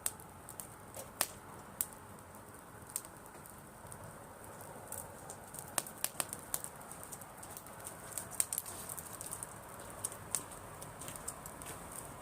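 Driftwood campfire crackling: irregular sharp pops and snaps over a steady low rush of burning flames.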